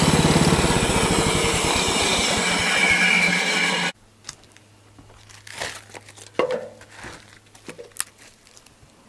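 Woodland Mills HM-126 portable sawmill's small gasoline engine running loud and steady, cutting off suddenly about four seconds in. Faint knocks, scrapes and rustles follow.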